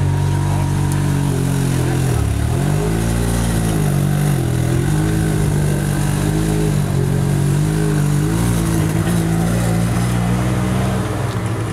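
An exotic sports car engine running loudly at low revs. Its pitch dips and swings back up about two seconds in and again near the middle, then holds fairly steady with small wavers before easing off near the end.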